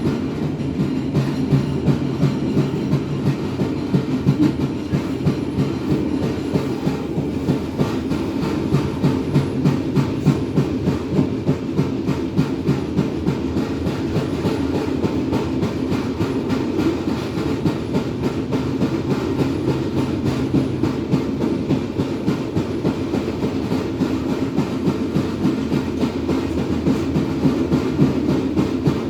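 Passenger train running along the track: a steady rumble of the carriages with continual clicking and clacking of the wheels over the rails.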